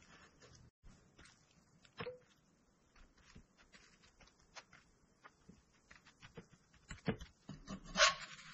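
Butter faintly sizzling and crackling under a grilled cheese sandwich in a cast-iron skillet, with a few light clicks of a spatula against the pan about two and seven seconds in and a louder scrape of the spatula near the end as the sandwich is lifted to check it.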